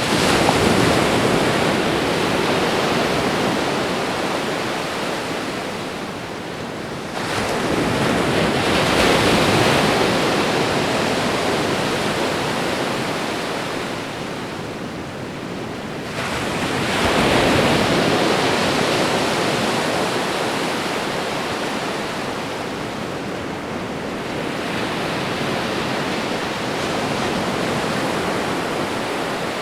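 Ocean waves breaking on a shore: a continuous rush of surf that swells with each incoming wave, clearly near the start, about seven seconds in and about seventeen seconds in, then more gently later, easing off in between.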